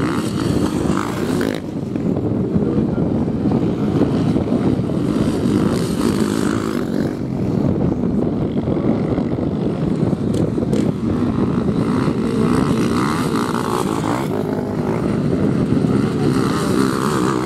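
Motocross motorcycle engines racing around a dirt track: a continuous loud engine drone that swells several times as bikes pass.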